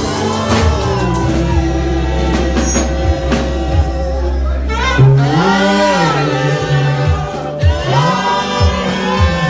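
Christian worship music at a church service: voices singing over a band with steady bass notes and a regular drum beat, the singing swelling louder about halfway through.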